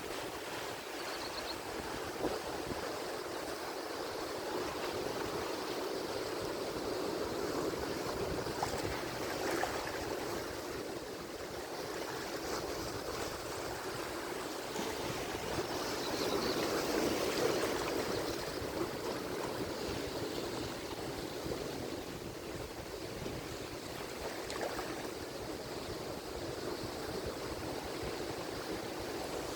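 Atlantic Ocean surf: waves breaking and washing on the shore in a steady wash, swelling to a louder break about halfway through.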